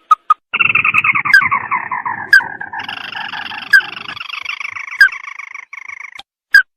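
Crake (tikusan mata merah) calls from a bird-lure recording: a long rattling trill starts about half a second in and slides down in pitch. A second, higher trill joins it about three seconds in, with sharp short notes about every second, and the calling stops shortly before the end.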